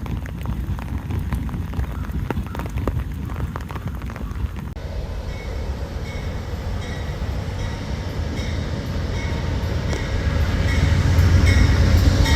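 Train rumbling, growing louder as it approaches over the last couple of seconds.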